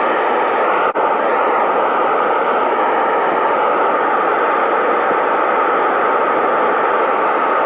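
Metal-melting furnace burner running with a steady, loud rushing noise, briefly cut off for an instant about a second in.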